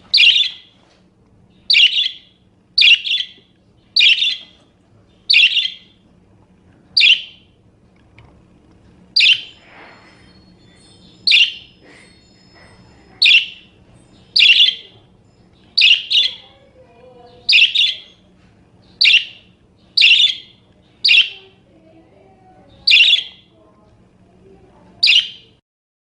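Parakeet giving a series of short, sharp, high chirps, about seventeen in all, spaced roughly one to two seconds apart, some of them doubled, with a longer gap about eight seconds in.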